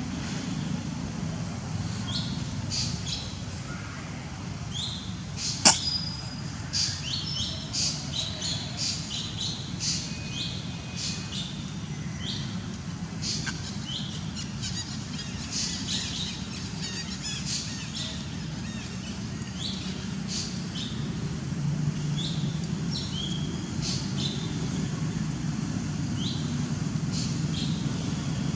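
Birds chirping, with many short, high calls scattered throughout, over a steady low background rumble. There is one sharp click about six seconds in.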